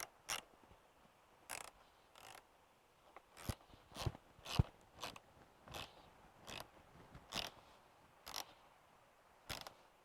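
Ratchet wrench with a 13 mm socket tightening the rear wiper arm nut. It gives about a dozen single clicks, irregularly spaced half a second to a second apart, as the handle is swung back and forth.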